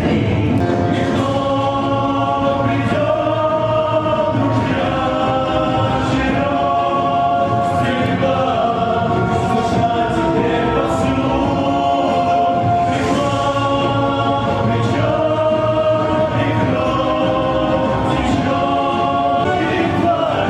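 A choir singing long held notes over musical accompaniment, moving from chord to chord every second or two.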